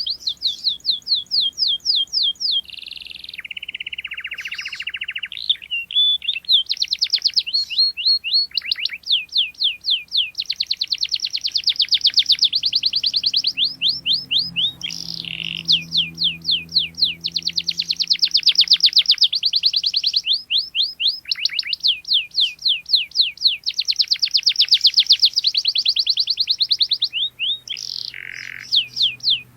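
Canary singing: long runs of fast, evenly repeated chirps, each a quick sweep in pitch, broken by a short lower buzzing roll a few seconds in and by brief pauses.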